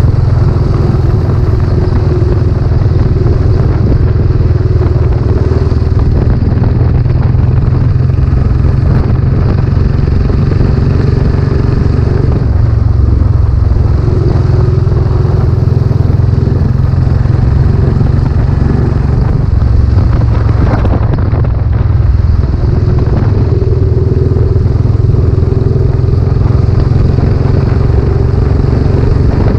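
Royal Enfield Classic 500's single-cylinder 500cc engine running through a newly fitted silencer as the bike is ridden, loud and at fairly steady revs.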